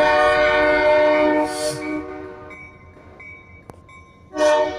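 Train horn sounding a long multi-tone blast that fades out about two seconds in, followed by a second short blast near the end.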